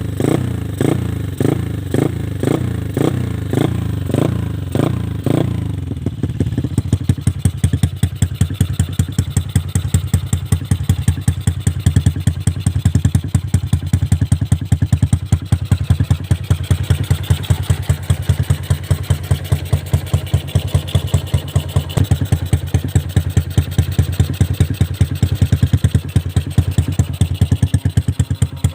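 Yamaha LC135 single-cylinder four-stroke motorcycle engine with a 60 mm big-bore block, heard through an Espada E5 aftermarket exhaust. For about the first six seconds the throttle is blipped in quick repeated revs, about two a second. The engine then settles into a steady idle.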